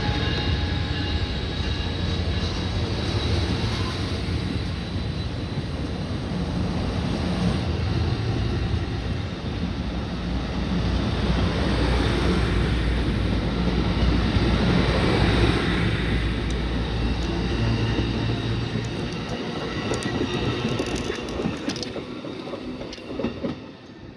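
A train rolling past with a steady rumble of wheels on rail. Faint high squealing lines sit above the rumble, a few sharp clicks come late on, and the sound drops away just before the end.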